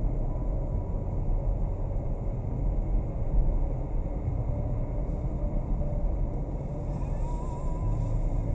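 Steady low rumble of a car driving, engine and road noise picked up by a dashcam, with a faint warbling tone near the end.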